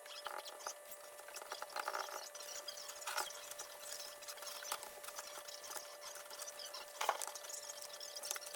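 Paper towel being rubbed over deer antlers to work in stain: faint scratchy rubbing with light clicks and taps, over a steady faint hum.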